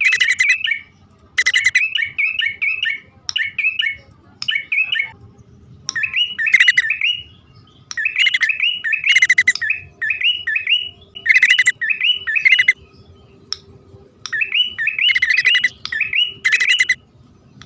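Prenjak (prinia) lure calls from a male and a female: bouts about a second long of rapid, sharp chattering notes. The bouts repeat again and again with short pauses between them.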